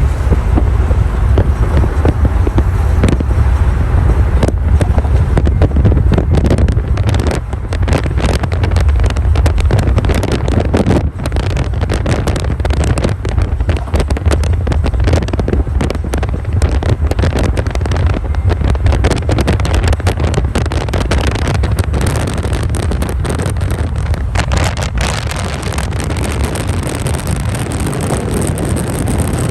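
Car noise with heavy wind buffeting the microphone: a constant deep rumble crackling with quick gusts, easing slightly in the second half.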